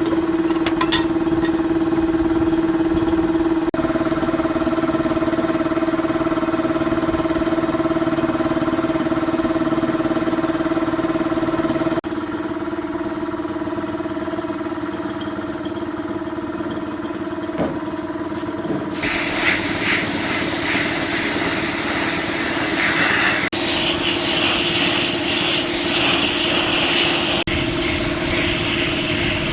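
A steady machine hum from a motor-driven tool, holding one even pitch through several abrupt edit cuts. About two-thirds of the way in, a loud hissing spray joins it and runs on.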